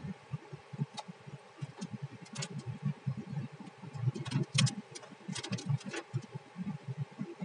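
Raindrops tapping irregularly on a moving car, over the car's low rumble and a steady hum.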